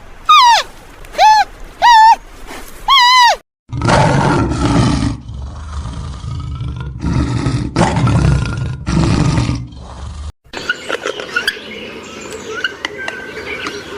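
Four short, loud, wavering goat bleats. These are followed by a big cat's low, rough roars, repeated several times over about six seconds and then cut off. After that come faint bird chirps over outdoor ambience.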